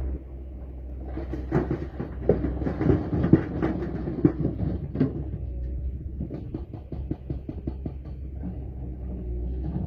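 Excavator engine running low and steady, with a rapid series of knocks and clanks from the machine working for a few seconds, then lighter, evenly spaced clicking.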